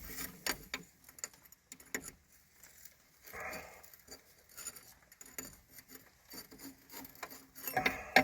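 Rain pattering on the machine, with scattered sharp metal clicks and taps from a wrench working a fitting loose, and a louder knock near the end.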